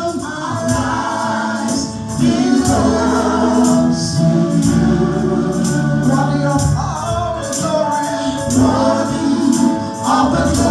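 Gospel music: a choir singing over steady bass notes, with light percussion ticking in the high end.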